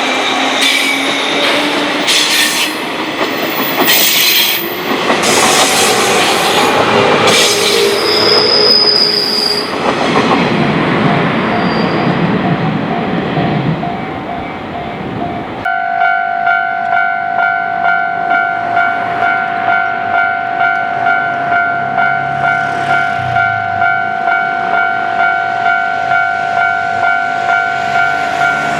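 A Yumesaki Line train passing over a level crossing, with wheels rattling over the rails and a brief high wheel squeal. About halfway through it cuts abruptly to a Japanese level-crossing bell ringing steadily at about two strokes a second, the warning that a train is approaching.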